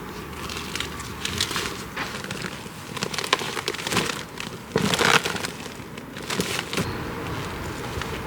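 Irregular rustling and crinkling with scattered knocks, as of material and gear being handled. The loudest cluster comes about five seconds in, and it quiets near the end.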